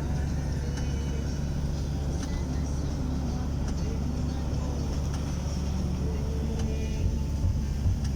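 A steady low engine drone, as of a motor vehicle running.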